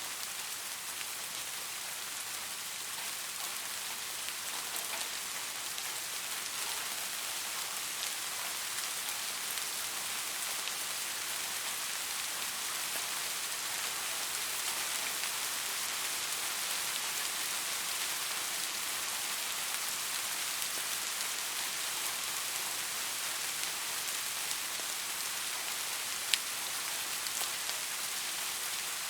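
Steady rain falling, an even hiss of drops. A single sharp tick stands out near the end.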